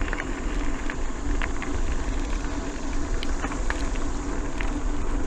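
Mountain bike riding along: wind rushing over the microphone and tyres rolling, a steady rumbling noise with a few small clicks and rattles scattered through it.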